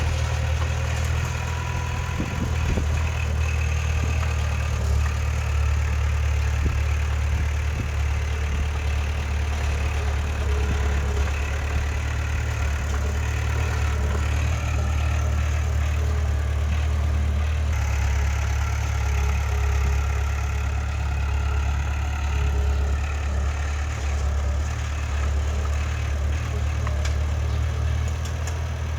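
Diesel engine of heavy earthmoving machinery, a bulldozer or dump truck, running steadily with a deep, even drone.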